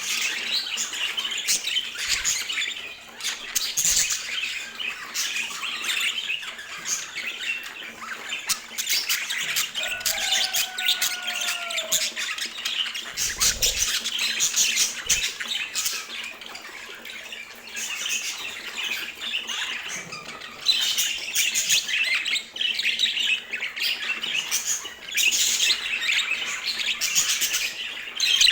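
Budgerigars chattering in a dense, rapid, high-pitched stream with many short clicks, and a brief falling whistle about ten seconds in.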